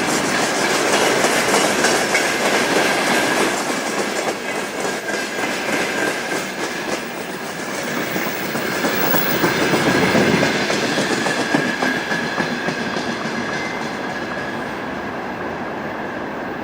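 Freight train wagons rolling past, their wheels clacking over the rail joints in a continuous rumble. A steady high ringing tone runs through it. The sound swells about two-thirds of the way in and eases slightly near the end.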